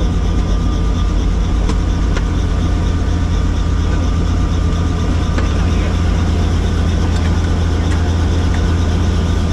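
Helicopter running with a loud, steady low drone of rotor and engine.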